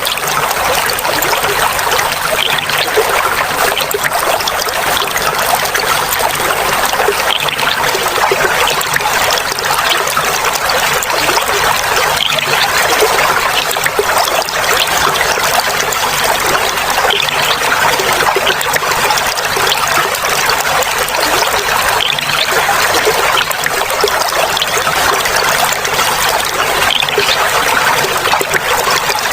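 Clear water flowing and trickling, a steady splashing babble that goes on without a break.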